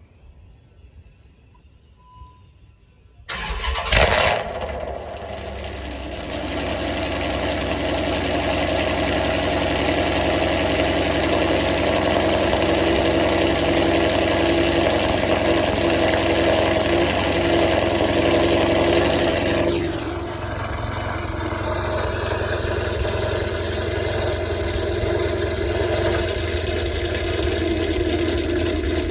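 2007 Dodge Charger SRT8's 6.1-litre Hemi V8 cold-starting about three seconds in: it fires with a loud flare, then settles into a steady fast idle. Around twenty seconds in, the idle drops slightly and changes tone, then runs steady again.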